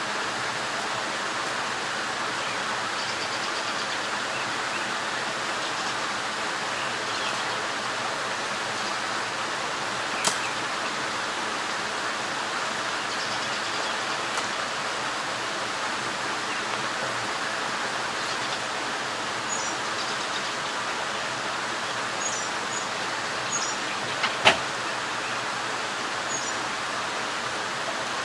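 Mountain stream rushing steadily over rocks. A few sharp clicks or knocks cut through it, the loudest about 24 seconds in, and a few faint, short, high chirps come between about 19 and 23 seconds.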